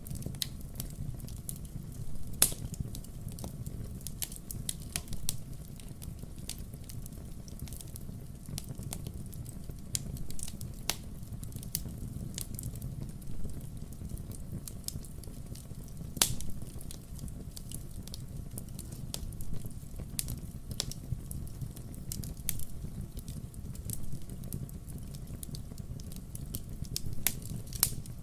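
Wood fire burning, crackling with irregular sharp pops and snaps over a low steady rumble; the loudest pops come about two seconds in and again around the middle.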